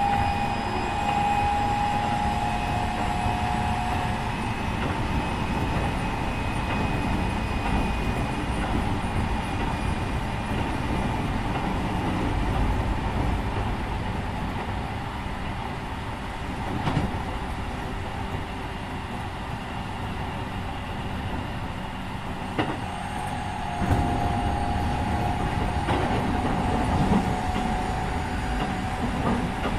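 Keikyu 1500 series electric train with refurbished Mitsubishi IGBT-VVVF traction equipment, heard from inside a motor car: steady rumble of wheels on track. The inverter's motor whine sounds in the first few seconds, stepping down in pitch, fades, then returns from about 24 seconds in. A few sharp knocks of rail joints come near the end.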